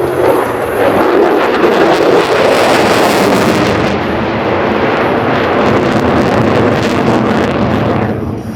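Loud roar of a jet aircraft flying past, with wind buffeting the microphone; it falls away shortly before the end.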